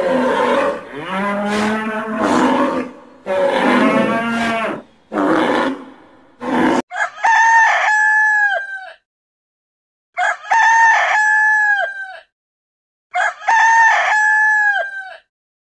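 A bull mooing several times in deep, drawn-out calls, then a rooster crowing three times, each crow about two seconds long with short silent pauses between.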